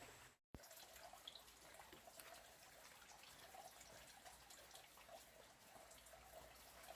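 Near silence: faint background ambience with light scattered ticks, cut by a brief dropout about half a second in.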